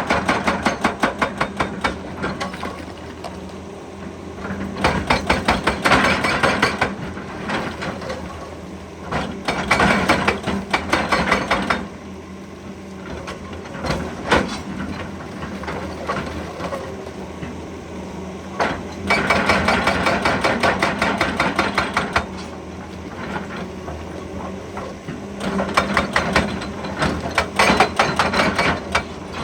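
Excavator-mounted hydraulic breaker hammering rock in bursts of two to three seconds, each a rapid run of repeated blows, five times, with the excavator's engine running steadily in between.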